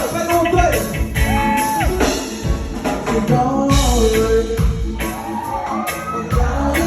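Reggae band music: a lead vocal singing held, gliding notes over drum kit, bass and guitar with a steady beat.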